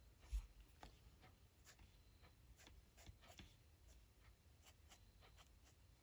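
Faint scratching of a pen drawing on paper in short, irregular strokes, with a soft low bump about a third of a second in.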